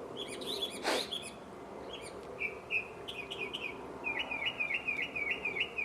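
Songbirds chirping, with a fast run of repeated chirps, about five a second, through the second half. A brief sharp sound about a second in.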